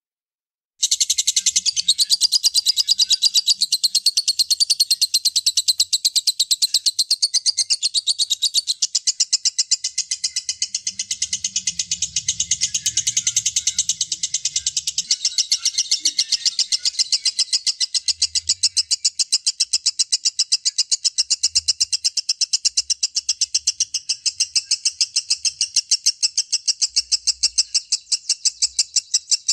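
Lovebird giving a long 'ngekek' chatter: a fast, unbroken run of high, evenly repeated shrill notes that starts after a short silence about a second in and keeps going without a pause.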